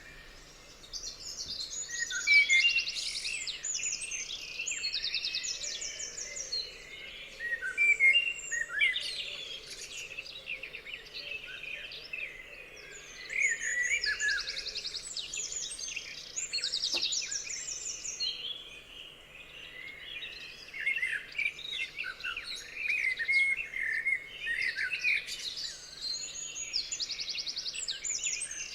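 Several songbirds singing together, overlapping chirps and whistled phrases mixed with rapid high trills that come and go.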